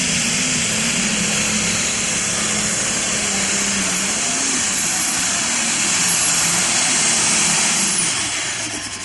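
Turbocharged diesel super stock pulling tractor running flat out under load, a dense high hiss over a wavering engine note. About eight seconds in, the throttle comes off: the sound drops away and a high whine glides down.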